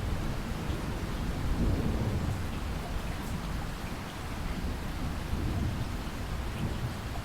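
Heavy rain falling steadily in a rainstorm, with a low rolling rumble of thunder that is strongest in the first two seconds and eases off after about four seconds.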